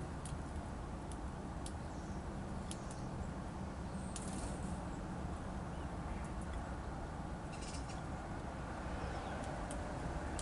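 Small songbirds feeding at a seed feeder: scattered sharp clicks and taps, with a few faint short high chirps, over a steady low background rumble.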